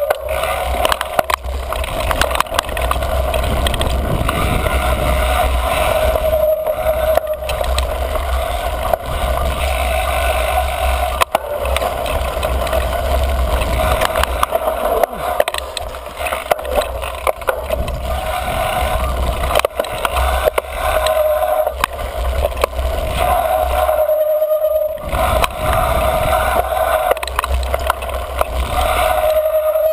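Mountain bike riding down dirt singletrack: wind rumble on the mic, tyres and frame rattling over the trail with scattered knocks, and a steady high squeal that swells and fades from the squealy front brake.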